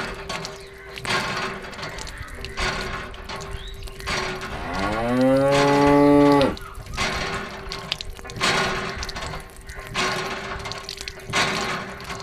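One long, low, moo-like call that rises in pitch, holds, then cuts off suddenly about five seconds in; it is the loudest sound here. Underneath runs background music with a steady tone and regular beats.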